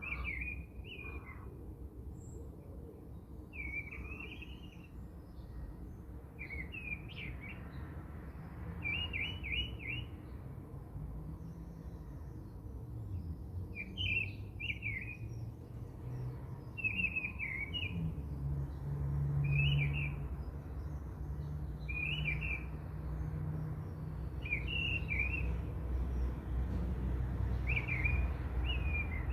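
A bird chirping in short repeated phrases, one every second or two, over a low steady rumble that grows louder about two-thirds of the way through.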